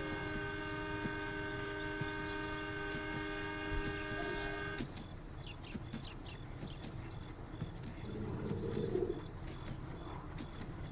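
Train horn sounding one long, steady chord over a low rumble, cutting off abruptly about five seconds in; the rumble carries on after it.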